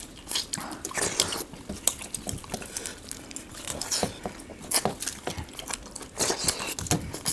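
Eating sounds from a meal of rice and large freshwater prawns: a busy run of irregular small crackles, clicks and wet chewing as the prawns are bitten and their shells broken and picked off.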